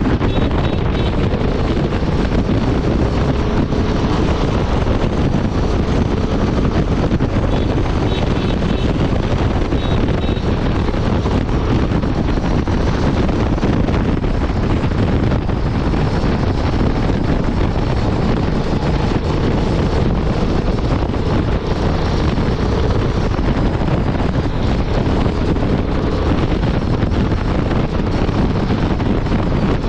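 Honda Transalp 750's parallel-twin engine and exhaust running at a steady highway cruise, heavily mixed with wind rushing over the microphone. The engine speed holds steady, without revving.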